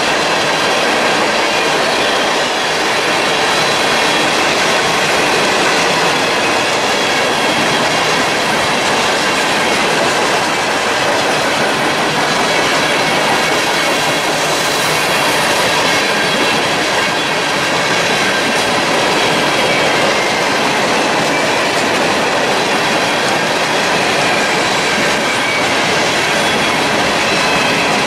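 Covered hopper cars of a freight train rolling past close by: a steady rumble and clatter of steel wheels on the rails, with faint high wheel squeal.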